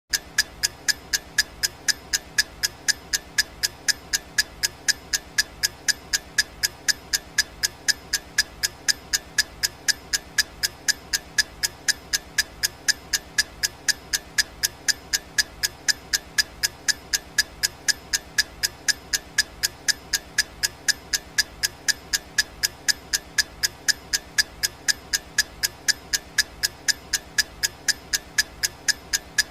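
Clock ticking sound effect for a countdown timer: even, sharp ticks at about two a second, over a faint steady hiss.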